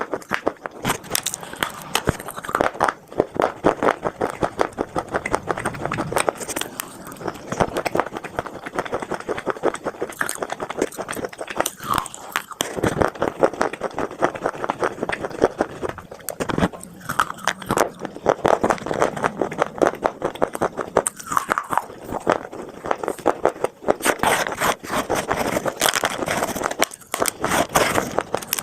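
Close-up crunching and chewing of dry edible clay: moulded khawa clay pieces and chunks of red earth being bitten and crushed between the teeth. It comes as a dense run of crackles with a few short pauses between mouthfuls.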